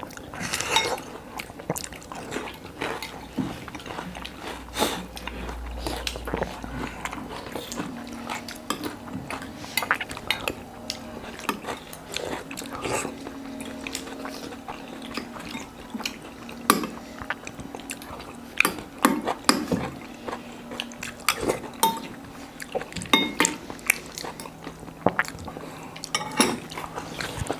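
Spoons and forks clinking and scraping against bowls and plates as people eat, in many irregular, sharp clicks.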